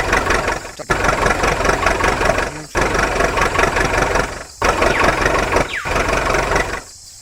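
Engine sound effect of a toy vehicle, played as four runs of one to two seconds separated by brief breaks, cutting off sharply near the end.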